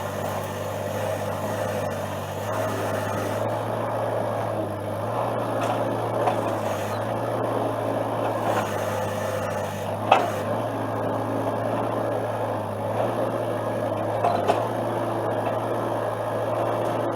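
Excavator engine running steadily, with two sharp knocks, one about ten seconds in and another about four seconds later.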